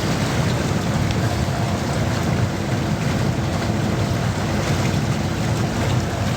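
Steady rush of rain and wind on the microphone aboard a bamboo raft on the river, with a low drone underneath.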